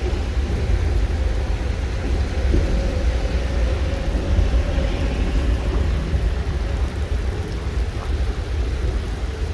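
Steady, fluctuating low rumble of wind buffeting the microphone, over the hiss of rain falling during a thunderstorm.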